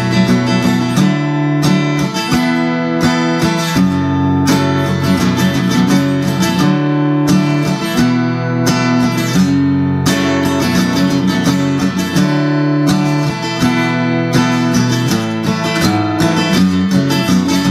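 Seagull Coastline S6 Burst acoustic guitar played through its built-in pickup and a Fender KXR 60 amp, strummed in a chord progression with the chords changing about every second.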